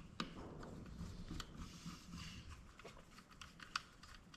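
Faint, scattered clicks and light scraping of small plastic and metal parts being worked at while prying open a dome security camera's lens assembly.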